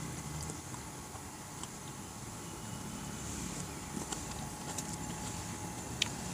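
A person chewing food close to the microphone, with small scattered mouth clicks and smacks and one sharper click near the end, over a steady outdoor hiss.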